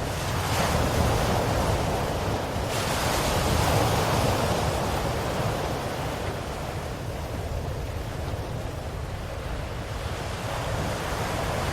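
Ocean waves washing onto shore: a wave surges in during the first few seconds, then recedes and fades, and the next begins to build near the end.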